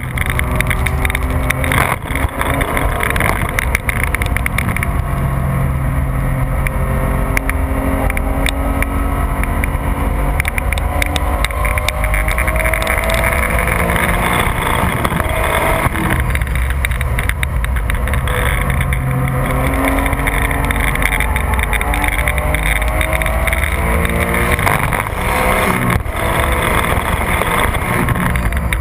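A Porsche 996 GT3's naturally aspirated flat-six engine running hard at track speed. Its pitch climbs and drops again several times as it goes through the gears, over steady wind and tyre noise.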